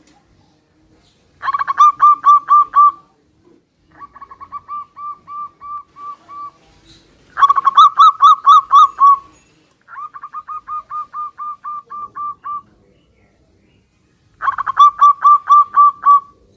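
Zebra doves (perkutut) singing their staccato cooing song. Five bouts of quick, evenly spaced coo notes alternate louder and fainter, as two birds answer each other.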